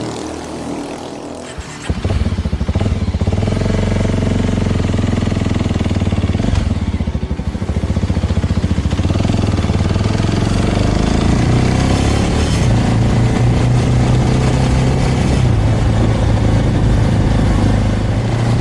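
Small Suzuki motorcycle engine under way. It jumps up about two seconds in, climbs in pitch as the bike accelerates, then settles to a steady cruise.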